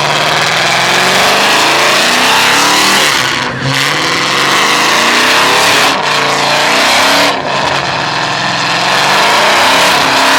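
Car engine revving hard, its pitch sweeping up and down repeatedly, over a loud hiss of spinning tires, as in a burnout or donuts. The revs drop briefly a few times.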